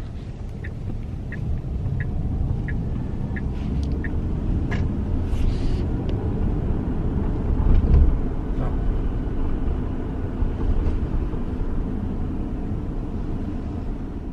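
Tesla Model S driving over rough town streets, heard from inside the cabin: steady low tyre and road rumble. A light, regular ticking runs about one and a half times a second for the first few seconds, and the rumble surges briefly about eight seconds in, as over a bump.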